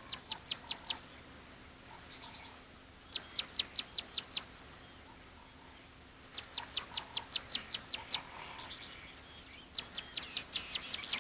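A bird calling in four bouts of rapid, evenly spaced high chirps, about six or seven a second, each bout lasting one to two seconds. A few short falling notes come between the bouts.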